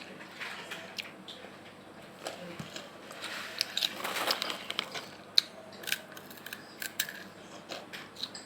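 Crispy snack chips being bitten and chewed: irregular sharp crunches and clicks, with a denser spell of crackling a few seconds in.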